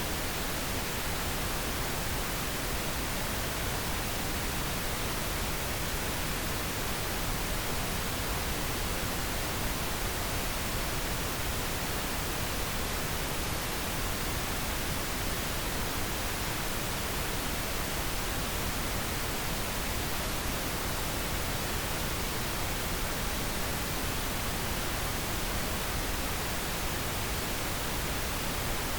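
Steady pink noise, an even, unchanging hiss spread across all pitches.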